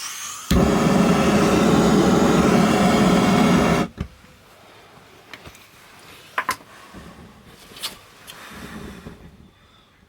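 A loud, steady rush of air lasting about three seconds, starting and stopping suddenly, then firewood burning in a wood-fired bath's firebox with a few sharp crackles and pops.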